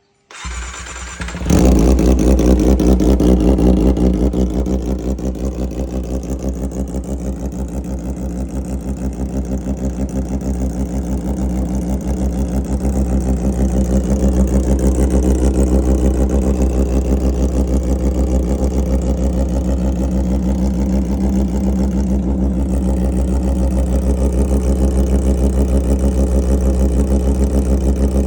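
Kawasaki Ninja ZX-25R's 249 cc inline-four engine cranked on the starter and catching about a second and a half in. It runs loudest for a couple of seconds, then eases and settles into a steady idle.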